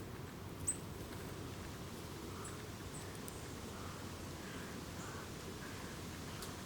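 Wild birds calling sparsely: a few short, high chirps, the loudest about a second in, and some softer notes in the middle, over a steady low background rumble.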